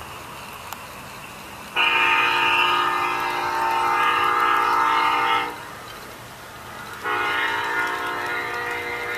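A model locomotive's sound unit plays a multi-tone train horn: two long blasts, the second starting about a second and a half after the first ends and still sounding at the end.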